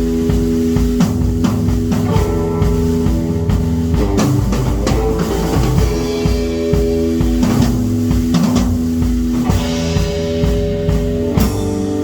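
Rock music with a drum kit and guitar: held chords over a steady, driving drum beat.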